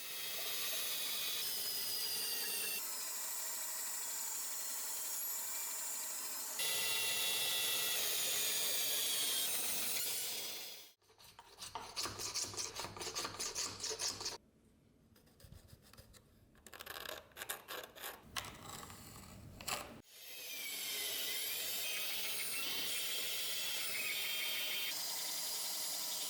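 Abrasive hand work in a workshop, steady rubbing and filing noise, broken by a few seconds of irregular strokes and then a quieter stretch with light taps before the steady rubbing resumes.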